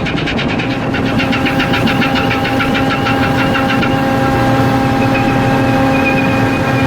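Ship's diesel engine running steadily under way on sea trial, with a rapid mechanical ticking, about ten ticks a second, that fades out about four seconds in, leaving a steady whine over the engine's hum.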